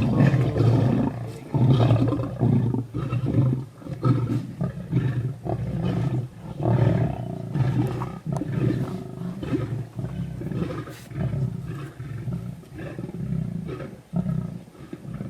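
Lion roaring: a run of deep, repeated grunting calls that weaken toward the end.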